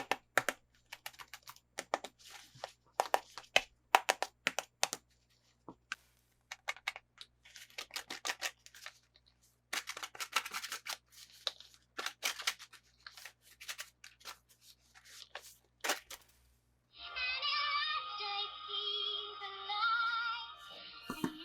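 Toy packaging being handled and opened: rapid, irregular clicks, taps, crinkles and tearing, with a few short pauses. About three-quarters of the way through, music with a wavering high sung melody comes in.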